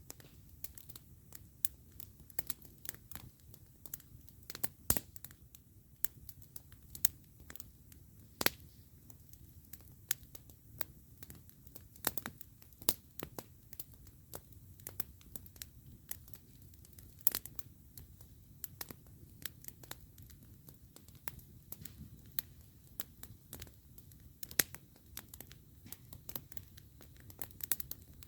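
Wood campfire crackling: irregular sharp pops and snaps, some much louder than others, over a steady low background.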